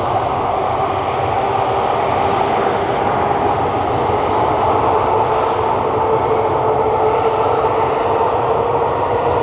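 Jet airliner engines, a loud steady rush with a whining tone that climbs slowly in pitch.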